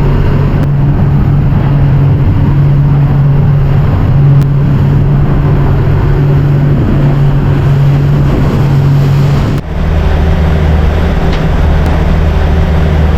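Motorboat engine running steadily under way, with wind and water noise. About ten seconds in the engine note drops to a lower hum.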